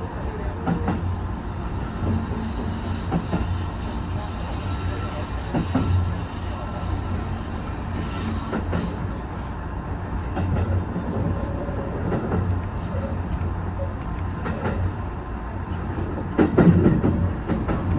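Senseki-Tōhoku Line HB-E210 hybrid train running, heard from inside at the front: a steady low rumble, with thin high wheel squeals a few seconds in and a short run of knocks from the wheels near the end.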